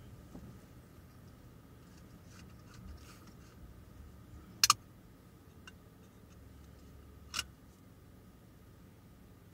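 Sharp clicks over a faint steady hum: a quick double click about halfway, then a single softer click over two seconds later.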